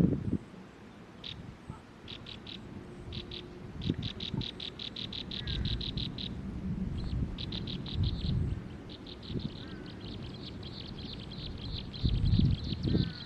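Bird chirping: runs of short, high chirps repeated about six times a second, running almost without a break in the later part. Low rumbling and knocks are underneath, loudest near the end.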